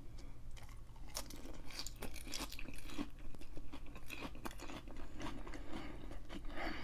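Close-miked chewing of crisp lettuce salad: a steady run of wet, crackly crunches.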